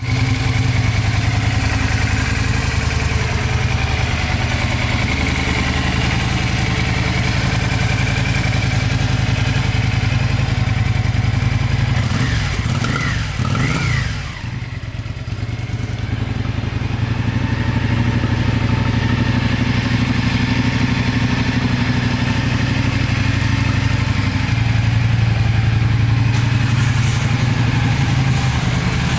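Yamaha Virago 535's air-cooled V-twin engine idling steadily, with two quick blips of the throttle about halfway through before it settles back to idle.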